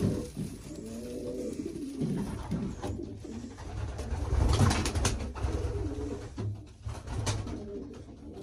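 Racing pigeons cooing in the loft, several birds calling over one another. A few sharp clicks and scuffles come about halfway through and near the end.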